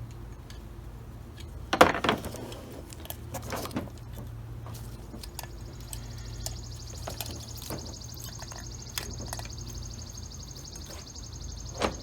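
Carburettor parts being handled: two sharp knocks in the first four seconds and scattered light ticks, then a steady high-pitched hiss that starts about halfway through and stops just before the end.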